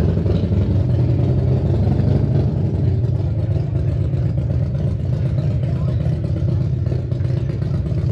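Motorcycle engine running steadily under way, a deep, even drone with wind noise over it.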